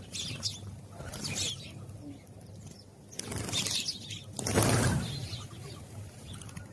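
House sparrows chirping: short high chirps that drop in pitch, coming in little groups. A louder rushing whoosh about four and a half seconds in is the loudest moment.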